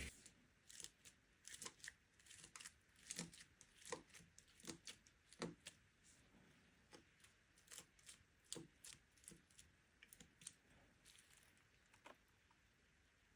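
Chunky glitter being crunched and handled close to the microphone: faint, irregular crackles and crinkles, many short ones, thinning out over the last few seconds.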